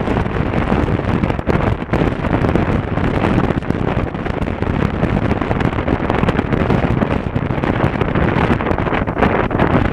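Steady, loud wind noise buffeting an action-camera microphone while riding a Honda Africa Twin CRF1000L motorcycle, with no distinct engine note standing out.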